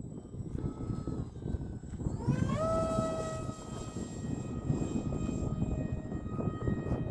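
Value Hobby Astro RC model airplane's motor and propeller whining as it is throttled up about two seconds in, the pitch rising quickly and then holding steady, over a low rumble of wind buffeting the microphone.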